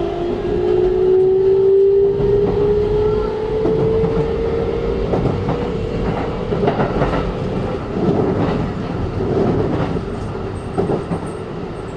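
Inside a Keikyu New 1000 train car, the Siemens GTO VVVF inverter and traction motors whine, one tone rising steadily in pitch as the train accelerates, then fading out about eight seconds in. Wheels rumble and clack over rail joints underneath.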